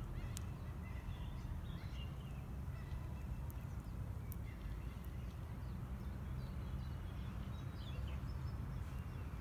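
Outdoor ambience: small birds chirping faintly now and then over a steady low rumble.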